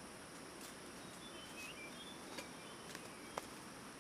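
Faint, steady insect drone of rainforest undergrowth, with a few short high bird chirps a second or so in and a couple of sharp clicks near the end.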